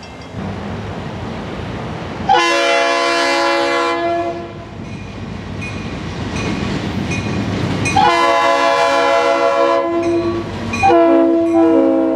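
Freight locomotive horn, a GP40-2 diesel's multi-chime air horn, sounding three long blasts. Between the blasts the rumble of the approaching train grows louder.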